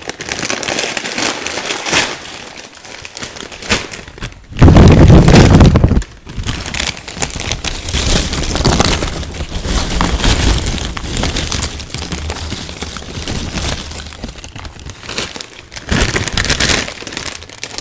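Close-miked crunching and crackling of chips being bitten and chewed, continuous and loud. A much louder, heavier crackling burst comes from about four and a half to six seconds in.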